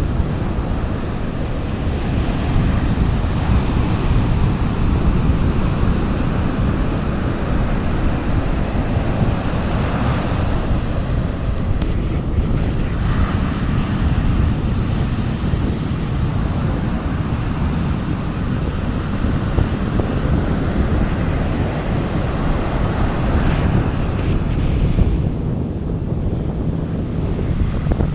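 Sea waves washing onto a beach, the surf swelling and easing in slow washes, over a steady low rumble of wind on the microphone.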